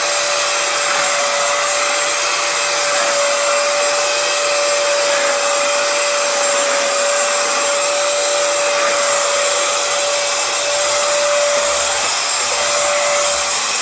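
Hoover FloorMate Edge hard-floor cleaner running in dry mode, its suction motor a steady whine with one held tone over a noisy hiss.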